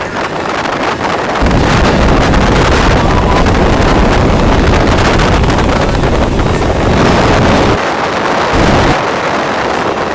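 Wind buffeting the microphone aboard a pontoon boat, a loud rushing noise. The low rumble drops out briefly at the start and twice near the end.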